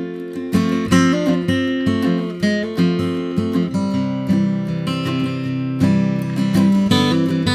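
Acoustic guitar music, strummed and plucked chords at a steady pace.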